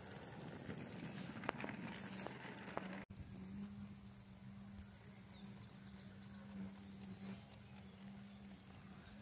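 Small birds chirping in quick high trills over faint outdoor background noise and a steady low hum. The sound drops out briefly about three seconds in. Before that there is only outdoor noise with a few light clicks.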